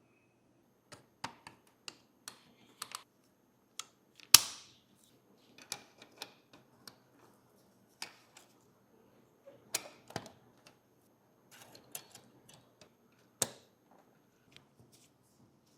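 Irregular sharp clicks and taps of small model parts and hand tools being handled, the loudest about four seconds in, with a short ring after it.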